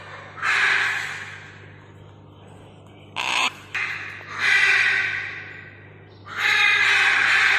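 Macaw squawking: three long, harsh calls, with two short squawks in between about three seconds in.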